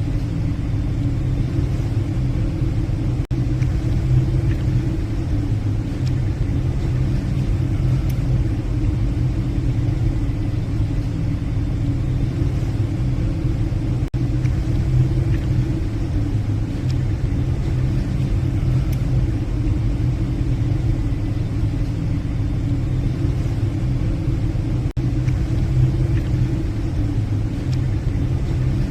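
Passenger ship's engines and hull vibration making a steady, deep rumble with a constant low drone, heard from inside the bridge.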